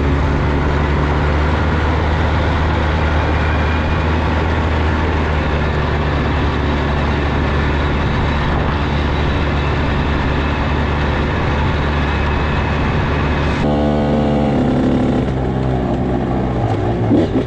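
Small engine running steadily and loudly, with a slight change in its note near the end.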